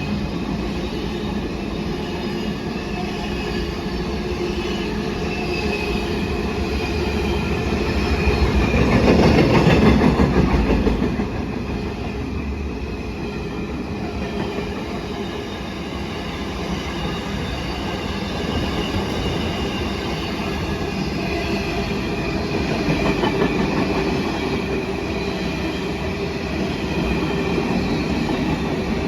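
A train running on the track: a continuous rumble of wheels on rail with steady high-pitched tones over it, swelling loudest about a third of the way through.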